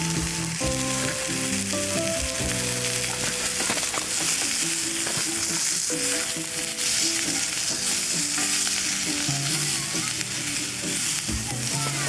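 Vegetables sizzling as they fry in a frying pan, stirred now and then, with background music playing.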